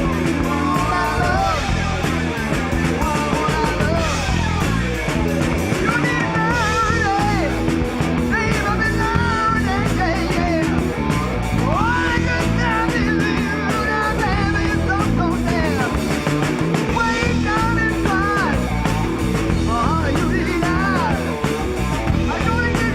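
Rock band playing live: a lead line of bending, wavering notes over bass and drums.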